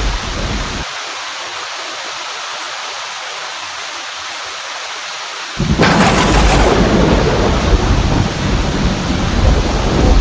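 Steady heavy rain, with the low rumble of thunder dying away about a second in. About five and a half seconds in a loud thunderclap breaks suddenly and rumbles on to the end.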